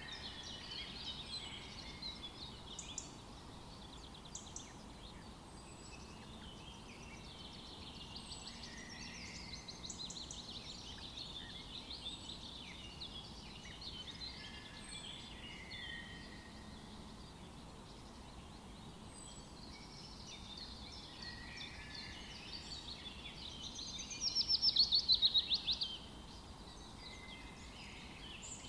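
Several songbirds singing and calling at once over a faint background hiss, with many overlapping chirps and phrases. Near the end one bird gives a loud, rapid trill lasting about two seconds. A faint, short high note repeats every couple of seconds.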